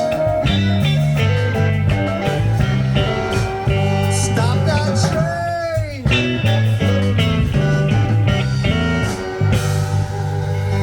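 Blues band playing an instrumental break with guitar to the fore. About five seconds in, one note bends up and then swoops down steeply.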